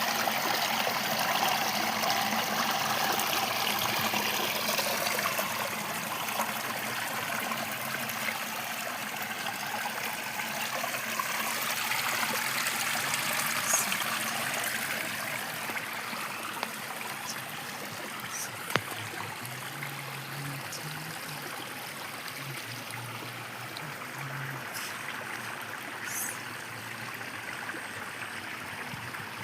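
River water flowing over and around rocks, a steady rushing, babbling sound that eases off a little after the first half. A single sharp click about two-thirds of the way through.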